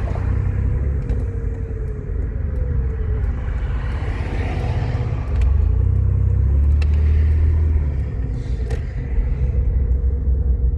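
Car running, heard from inside the cabin: a steady low rumble of engine and road, louder for a few seconds in the middle.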